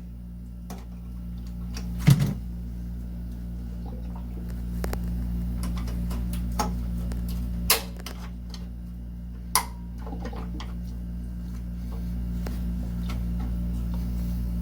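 Sharp clicks and small knocks from wires and metal terminal parts being handled and pushed into place while wiring an electric water heater, the loudest about two seconds in and a few more later, over a steady low hum.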